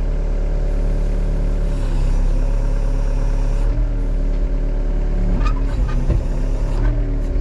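Case excavator's diesel engine running under load as the machine pushes against a tree, its pitch shifting a couple of times. Near the end, a few sharp cracks.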